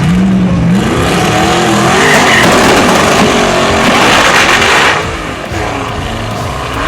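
Racing car engine revving, its pitch climbing over the first two seconds into a loud rushing noise that drops away about five seconds in.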